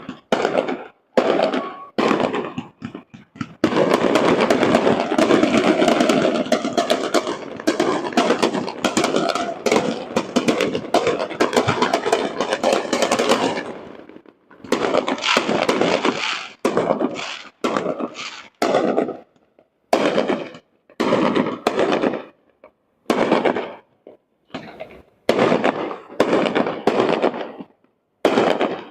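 Fireworks display: aerial shells going off one after another, each bang trailing off. From about four seconds in to about fourteen seconds they come as a dense, unbroken barrage, then as separate bursts again about once a second.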